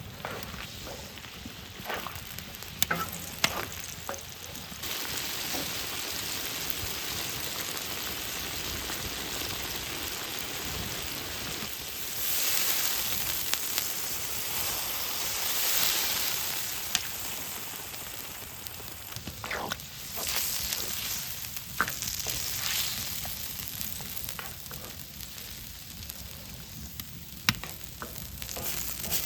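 Food sizzling as it is stir-fried on a cast-iron cauldron lid over a wood fire, with a few sharp clicks of a utensil against the metal. The sizzle swells louder about halfway through.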